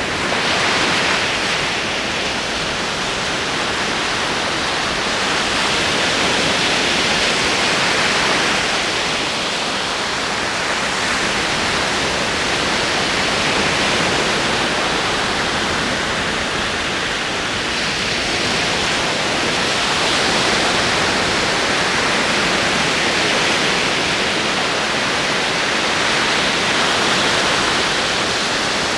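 Ocean waves rolling onto a shore: a steady hiss of surf that swells gently every six or seven seconds.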